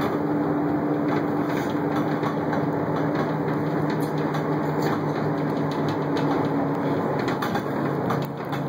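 Moving truck driving, heard from inside its enclosed cargo box: a steady engine and road drone with frequent small rattles and knocks. The upper part of the drone drops away about eight seconds in.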